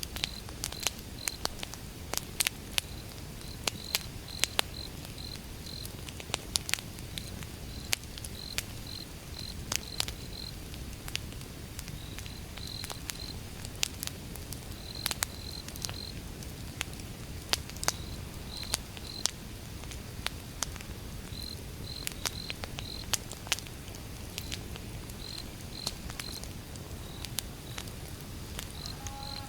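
Campfire wood burning: irregular sharp crackles and pops over a low, steady rush of flame. Crickets chirp in short runs of pulses throughout.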